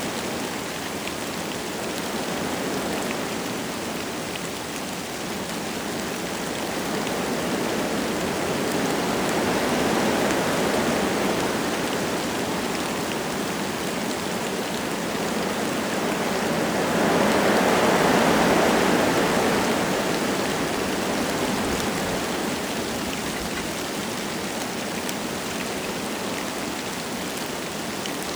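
Wind gusting through forest trees with light rain falling. It is a steady rushing that swells twice, most strongly about two-thirds of the way through, then eases.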